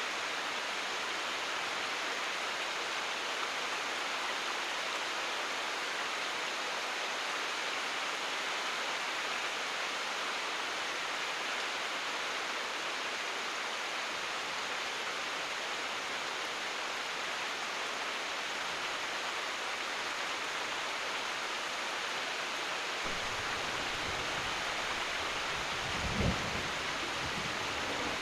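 Steady rain, an even hiss. Near the end a low rumble comes in, with one brief low thud about two seconds before the end.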